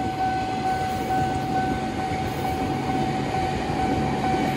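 JR 205 series electric commuter train passing close by at fairly high speed, with a steady rumble of wheels on rail. Over it the level-crossing siren holds one steady warning tone.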